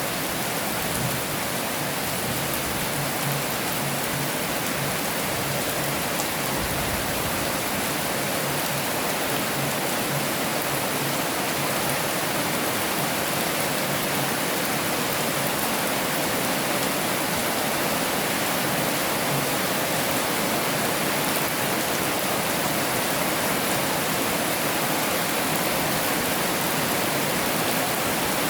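Heavy rain falling steadily, a dense, even hiss of many drops with no single strikes standing out.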